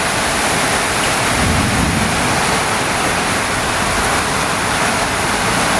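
Torrential rain pouring down in a heavy windstorm, a steady loud rushing hiss, with a brief low gust of wind about a second and a half in.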